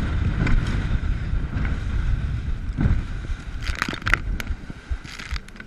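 Skeeter boat running through rough chop: heavy wind buffeting and rushing water, with several sharp knocks and bangs from about the middle on as the boat pounds the waves.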